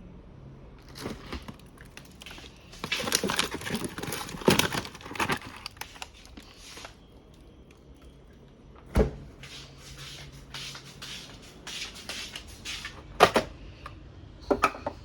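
Close handling of objects: a run of rustling and clicking for several seconds, then three separate sharp knocks.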